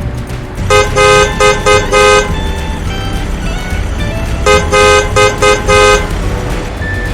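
Vehicle horn honking in two bursts of five short toots, about three seconds apart, over a steady background.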